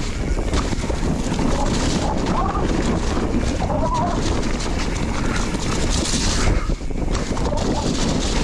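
Wind rumbling on the microphone of a camera riding with a mountain bike at speed down a muddy trail, with tyre noise and rattling clicks from the bike over rough ground. A brighter hiss swells briefly about six seconds in.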